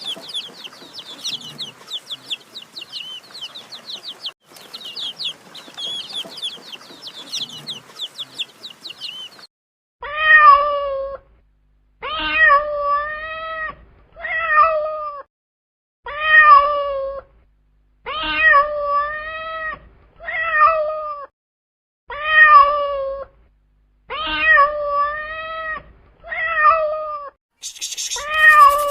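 A cat meowing over and over, about nine drawn-out meows roughly two seconds apart. Before that, for the first third, comes a dense run of high, rapid chirping.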